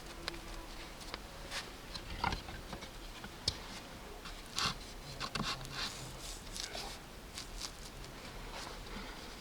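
Hands working wet clay: irregular soft rubbing, pressing and scraping, with a few sharper slaps and knocks in the middle of the stretch.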